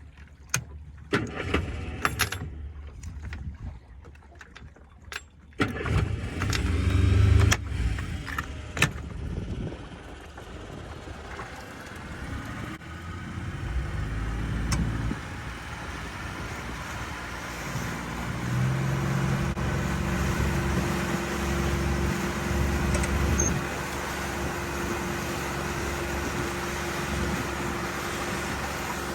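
A few clicks and knocks, then about six seconds in a boat engine starts and runs steadily, settling into a higher, even pitch about eighteen seconds in as the boat gets under way.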